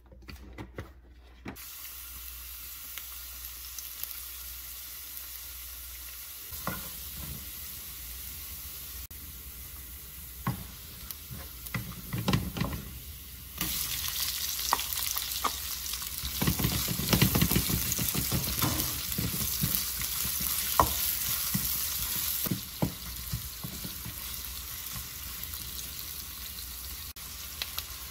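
Chopped garlic sizzling in hot vegetable oil in a nonstick wok; about halfway, onions go in and the sizzle gets clearly louder. A plastic spatula scrapes and taps against the pan now and then as the pieces are stirred.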